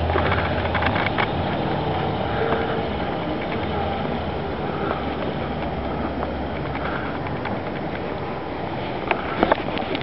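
A steady low rumble like a vehicle engine running close by, with a few sharp clicks near the end.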